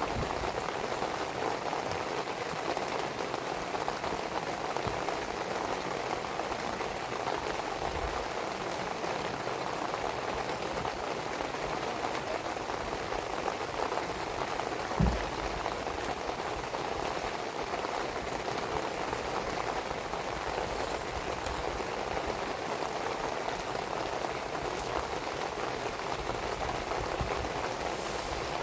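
Steady rain falling, with a wood fire burning and giving off a few faint pops. A single low thump sounds about halfway through.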